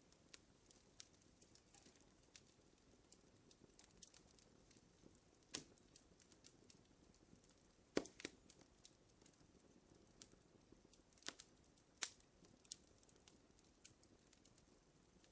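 Wood fire crackling quietly in a fireplace: irregular small snaps and clicks over a faint hiss, with a few sharper pops, the loudest about eight seconds in.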